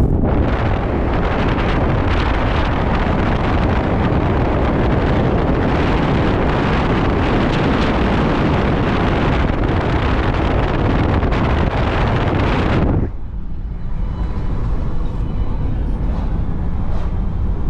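Strong wind buffeting the microphone as a loud, steady rumble with heavy lows. About thirteen seconds in it drops suddenly to a quieter, lower rumble.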